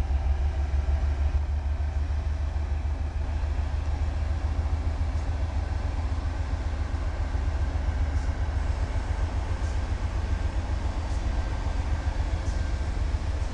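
Freight train with diesel locomotives rolling past, a steady low rumble.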